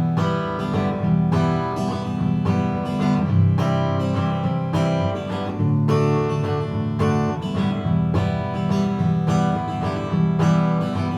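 Acoustic guitar strumming chords in a steady, even rhythm, with no singing over it.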